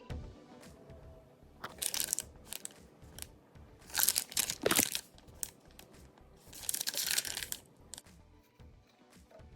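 Plastic packaging of shredded vegan mozzarella crinkling and tearing in three bursts, about two, four and seven seconds in, over faint background music.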